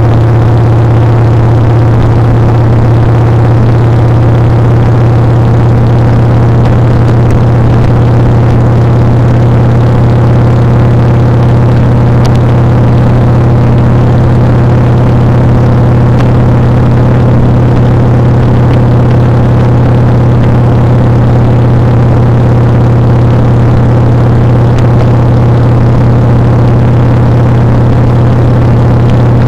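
Motorcycle engine running at a steady, unchanging speed while riding, a loud constant drone that holds one pitch throughout.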